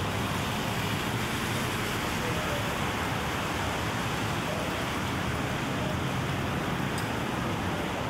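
Steady rain falling on a city street, an even hiss, with a low rumble of traffic underneath.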